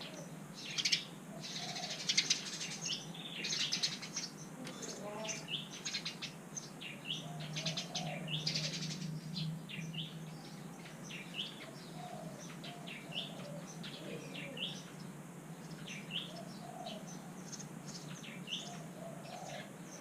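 Sparrow nestling begging calls from inside the nest: bursts of rapid, raspy chirping in the first half, then short single chirps repeated about once a second.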